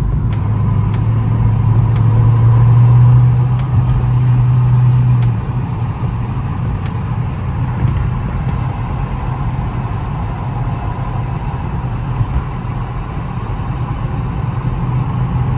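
Dodge Charger R/T's 5.7-litre Hemi V8 with its mid muffler and resonator deleted, cruising at highway speed with its exhaust droning over road noise. The drone is loudest for about the first five seconds, then drops off suddenly to a lower, steady cruise.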